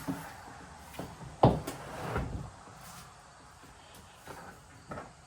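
A heavily loaded storage tote being pushed onto a low shelf, knocking and bumping against it, with one sharp knock about a second and a half in and a few lighter bumps after.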